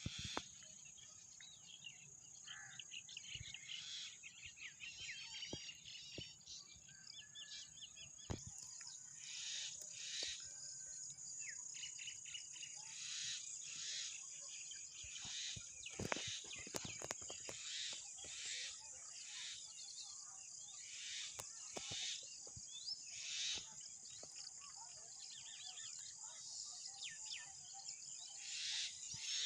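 Many wild birds chirping and singing in short, overlapping calls and trills, over a steady high-pitched hiss.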